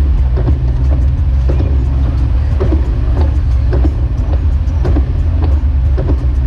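Jeep Wrangler YJ driving on snowy roads: a steady low engine and road rumble, with irregular clicks and knocks every half second or so.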